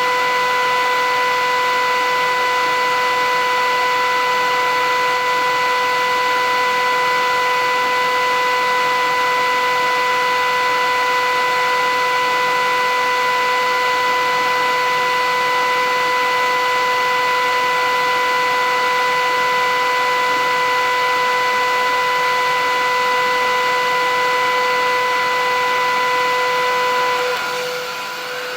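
Philips 8000 Series vacuum cleaner running steadily: a constant motor whine over rushing air. Near the end the level drops and the sound changes.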